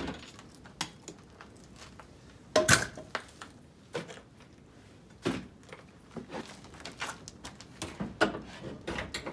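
Tools and parts being shifted around and set down on a workbench: a string of scattered clunks, knocks and light rattles, the heaviest a few seconds in and again near the end.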